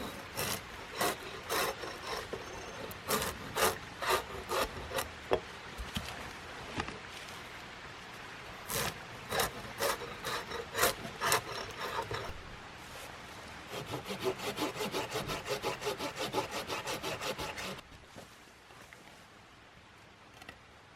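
Wood being cut by hand, one stroke after another. The strokes come in slow, spaced groups at first, then in a quick steady run of about five or six a second that stops abruptly near the end.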